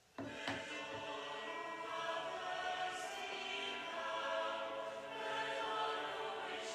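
Choir singing sacred music in sustained, overlapping voices, starting suddenly just after the start.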